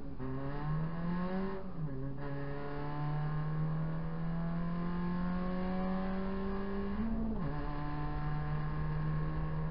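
Proton Saga race car's four-cylinder engine accelerating hard at full throttle, heard from inside the cabin: the pitch climbs steadily, with two upshifts, about two seconds in and again near seven and a half seconds.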